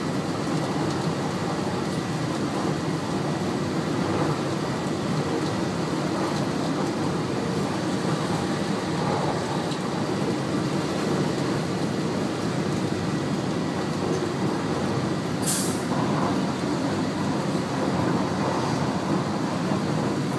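Steady running noise of an electric train heard from inside the driver's cab as it travels along the line, with a short sharp hiss about fifteen seconds in.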